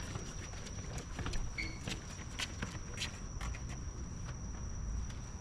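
Scattered footsteps and light clicks over a steady high-pitched whine, with one short chirp about a second and a half in.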